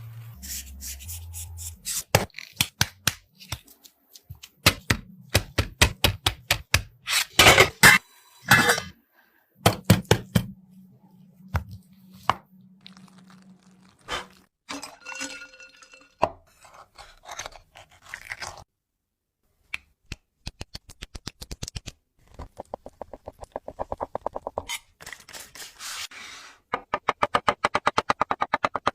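Knife chopping on a cutting board, with irregular thunks and scrapes, then a run of rapid, even chopping strokes near the end.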